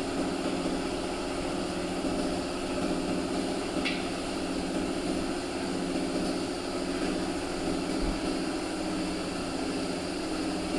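A steady machine hum with one faint short click about four seconds in.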